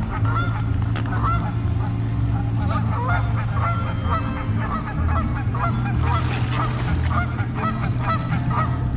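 A flock of seagulls calling, many short squawks repeating and overlapping, over a steady low hum.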